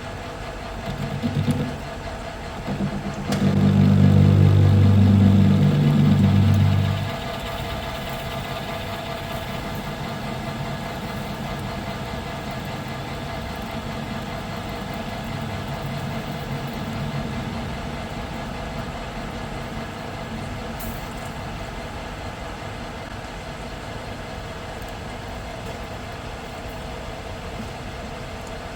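Metal lathe running while facing and chamfering a steel hex bar, a steady machine hum throughout. About three seconds in, a louder low drone starts with a click and lasts about four seconds before dropping back to the steady running hum.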